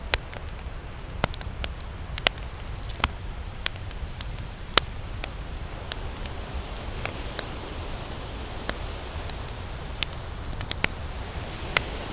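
Campfire burning, wood crackling with irregular sharp pops and snaps, several of them louder, over a low steady rumble.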